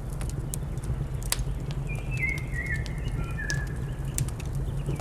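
Wood fire crackling with sharp, scattered pops over a steady low rumble, while a bird calls a short series of whistled notes that step downward in pitch about two seconds in.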